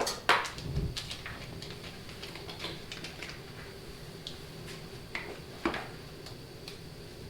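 A few sharp clicks and light taps: two near the start and two more about five seconds in, with fainter ticks between, over a faint steady hum. This fits HO slot cars and controllers being handled on the plastic track between heats.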